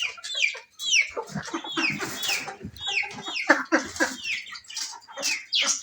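Pet birds and fowl calling together: a quick run of short, falling chirps mixed with clucking.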